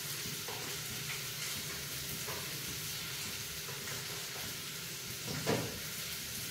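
Onions with coriander powder and salt sizzling steadily in hot oil in a steel pot, with a few light spoon knocks against the pot and a louder one near the end.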